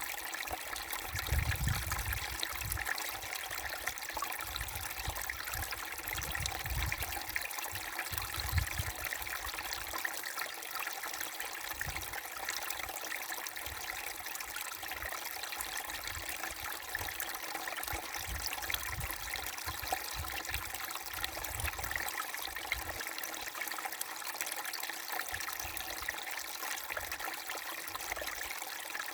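Babbling brook: a small stream running in a steady, even burble. Low rumbles come and go underneath, heaviest in the first nine seconds.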